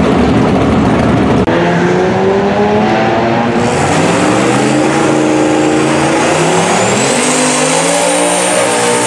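Turbocharged 5.3-litre LS V8 in a Volvo sedan held at high revs during a burnout, the rear tyres spinning. A thin high whine rises about seven seconds in, and the engine pitch dips and climbs again. This follows a short rumble of another car running far down the track during the first second and a half.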